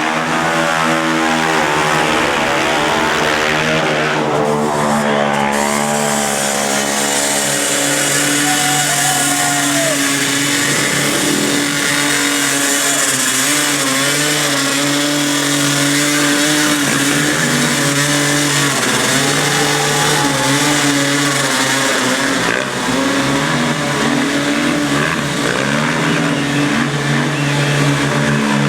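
Racing engines running loud, several at once, their pitch rising and falling as they rev over a steady engine drone.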